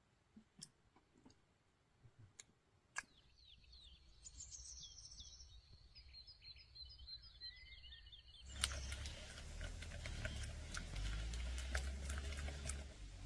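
Outdoor ambience: a few faint clicks, then small birds chirping in quick repeated notes; about eight and a half seconds in, a louder dense crackling with a low rumble starts and continues.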